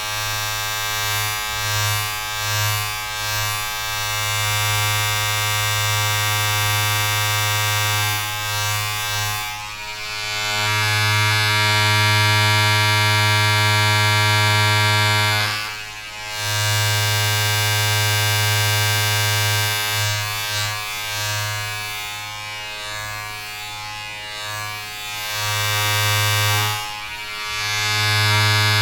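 A steady electric buzz from a small motor, with a strong hum and a hiss above it, swelling and easing in loudness and dropping away briefly twice.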